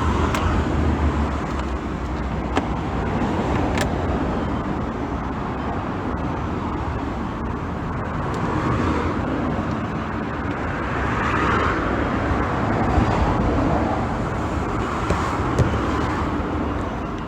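Road traffic noise, a steady rumble that swells and fades as vehicles pass, with two sharp clicks a few seconds in.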